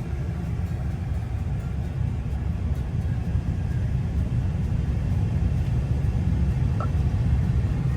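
Steady low rumble of a vehicle engine heard from inside the truck cab, with a brief faint squeak about seven seconds in.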